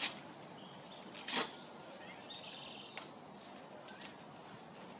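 A bird calls a short series of high chirps stepping down in pitch about three seconds in, over a faint outdoor background. A brief rasp about a second in, the loudest sound, comes from a horse's leg boot being fitted.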